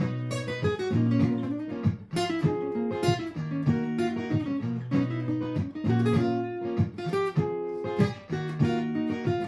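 Martin GPCPA4 acoustic guitar playing through a looper: a looped strummed chord part with picked improvised notes over it.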